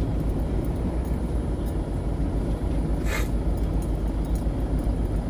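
GAZon Next truck's diesel engine running as the truck moves slowly along a rough road, a steady low rumble. A brief hiss comes about three seconds in.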